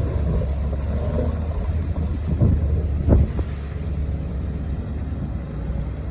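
Excavator's diesel engine running steadily, with two short clunks about halfway through as the machine works rock.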